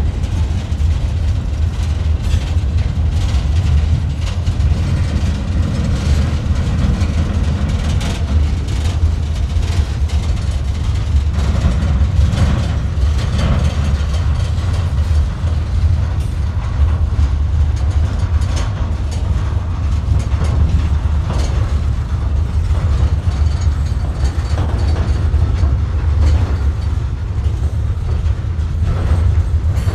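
Freight train gondola cars rolling past: a steady low rumble of steel wheels on the rails, with irregular clicks and clanks throughout.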